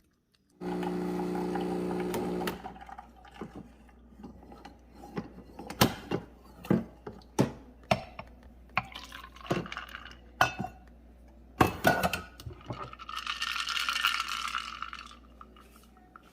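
Dishes clinking with a run of sharp clicks and knocks, after a brief steady hum at the start. Near the end comes about two seconds of liquid pouring.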